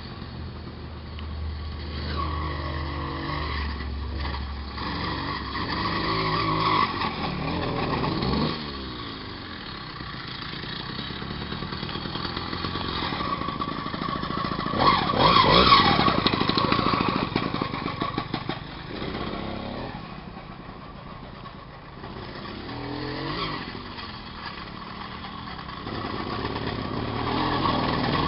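Small 66cc moped engine running and revving up and down several times, loudest about halfway through.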